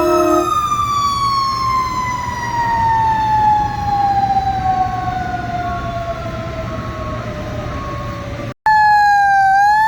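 Fire truck siren winding down, its pitch falling slowly and smoothly for about eight seconds, the way a coasting mechanical siren runs down; a held horn-like chord stops about half a second in. After a sudden break, an electronic siren wail starts, dipping and then rising in pitch.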